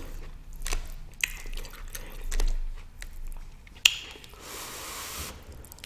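Close-up wet mouth sounds of eating: sticky smacking and clicking while chewing, with one sharper click a little under four seconds in and a short hiss just after it.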